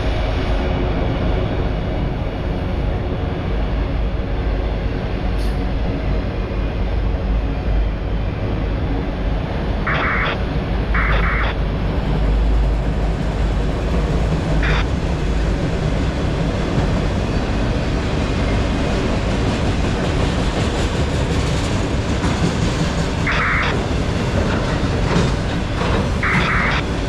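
A Norfolk Southern autorack freight train rolling past with a steady low rumble. A few short, higher-pitched bursts of noise come over it: two about ten seconds in and two more near the end.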